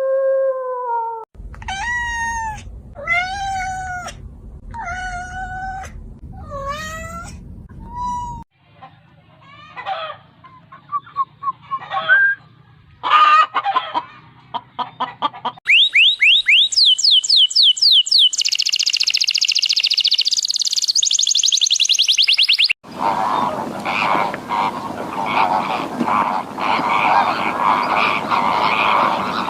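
A string of different animal calls, cut abruptly one after another. It opens with the end of a long held howl, then about five separate drawn-out calls that bend in pitch. After some scattered shorter calls comes a stretch of fast, high-pitched repeated chirping, and it ends in a dense, noisy chorus of many animals.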